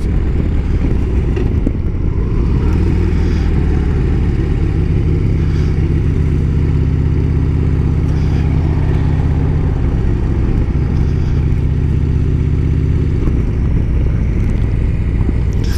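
Motorcycle engine running steadily while riding, with road and wind noise; the engine note holds level for most of the stretch and changes near the end.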